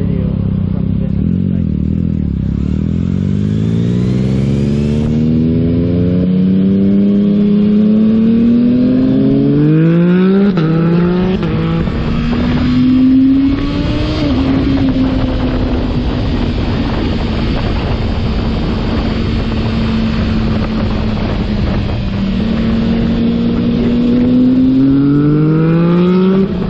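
Motorcycle engine pulling through the gears: the revs climb steadily, shift up about ten seconds in, hold steady at cruise for several seconds, then climb again and shift near the end, with wind rushing over the microphone.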